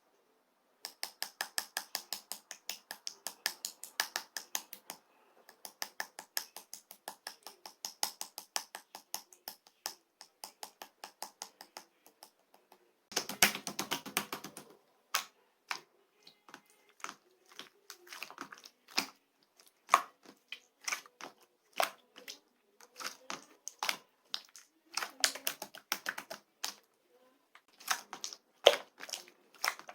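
Opaque slime being worked by hand, making quick wet clicks and pops: a fast, even run of about seven or eight clicks a second for the first ten seconds or so. Then comes a brief denser squishing burst, followed by slower, irregular pops.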